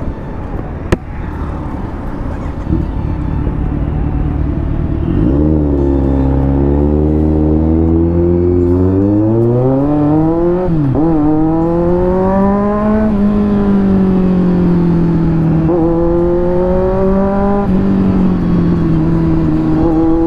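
Kawasaki Z900's inline-four engine accelerating under way: a low rumble of wind and road at first, then from about five seconds in the engine note climbs, drops sharply at a gear change near the middle, climbs again and settles into a steady cruise with a couple of smaller rises and dips. A single sharp click about a second in.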